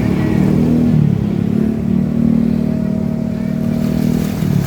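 Excavator's diesel engine running under load. Its pitch rises slightly about a second in, then holds steady.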